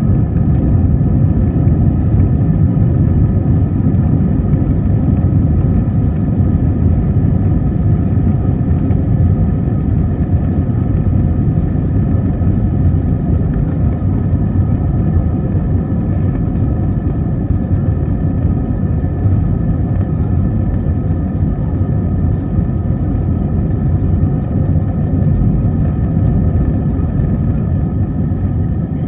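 Steady rumble of an airliner's engines heard from inside the passenger cabin, with a faint steady whine above it.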